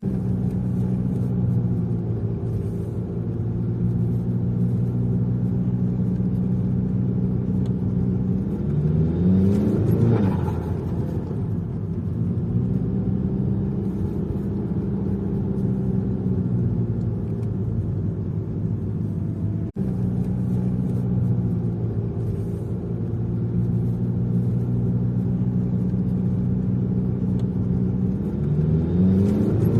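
Saab turbocharged engine idling through a loud exhaust. It is revved sharply twice, about a third of the way in and again near the end, each rev rising quickly and dropping back to idle with turbo flutter as the throttle is lifted.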